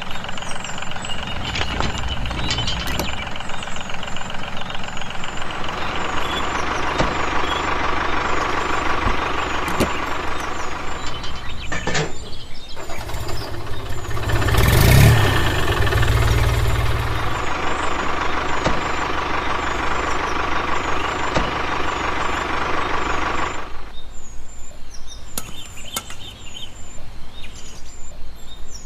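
An engine running with a steady pulsing rhythm, growing louder for a few seconds about halfway through.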